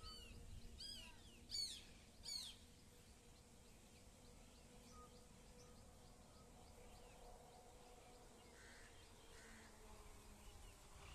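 Four sharp bird calls, each a quick downward sweep in pitch, in the first two and a half seconds. After them only a faint steady hum and a soft run of tiny repeated chirps.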